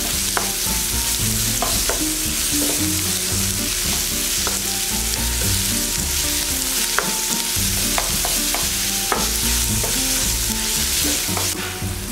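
Chopped onions, ginger and curry leaves sizzling in hot oil in a white nonstick frying pan as a wooden spatula stirs them, with the spatula tapping against the pan now and then. It is the sauté stage, cooking the onions down until soft.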